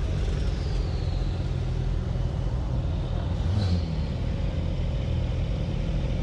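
Car engine running at idle, a steady low rumble, with a brief high chirp about halfway through.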